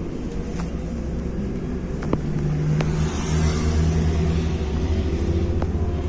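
MAZ-105 bus heard from inside the cabin: its diesel engine runs with a steady low hum that grows a little louder about halfway through, with a few sharp rattles and clicks from the body.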